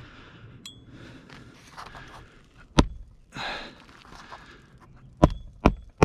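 Nails being driven into asphalt roof shingles: four sharp strikes, the last three in quick succession, with a heavy breath from the roofer between them.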